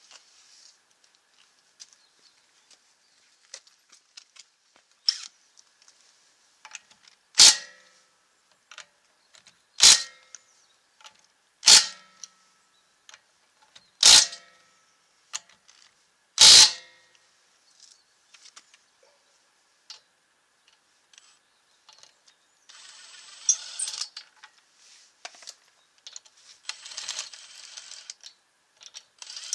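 Five short, loud metallic bursts with ringing, a couple of seconds apart, one for each of the five lug nuts on a car wheel. They are followed by fainter rattling and rustling.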